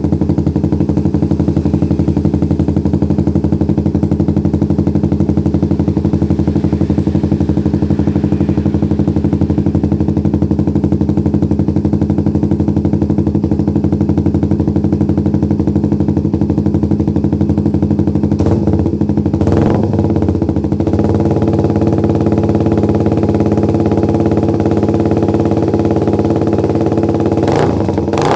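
Motorcycle engine idling steadily through an R9 GP-series aftermarket exhaust, its even note changing slightly about two-thirds of the way in. A few short sharp noises come around then and again near the end.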